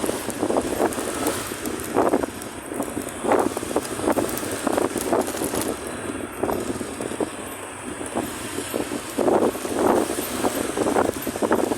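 Riding a motor scooter or motorbike: wind buffeting the microphone in irregular gusts about every second, over a steady rush of engine and road noise.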